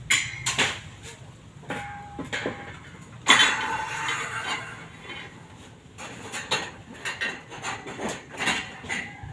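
Metal clinks and knocks from tools or metal parts being handled, with a louder scraping clatter about three seconds in.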